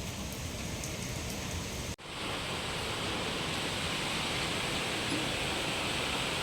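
Steady hiss of heavy typhoon rain. It cuts off abruptly about two seconds in and resumes at once with a brighter, hissier sound.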